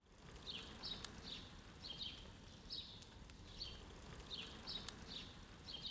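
Faint outdoor ambience with a small bird chirping: short, high, slightly falling notes about twice a second, often in pairs.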